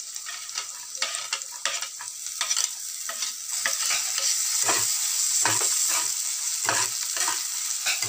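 Onion, green peas and freshly added chopped ginger and garlic sizzling in hot oil in a metal pan, stirred with a wooden spatula that scrapes and knocks against the pan about once a second. The sizzle grows louder about halfway through.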